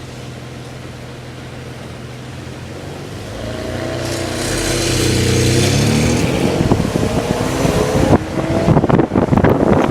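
A car engine running steadily, then speeding up from about three seconds in, its pitch rising and growing louder as the car accelerates. In the last two seconds it turns to a loud, choppy, broken noise.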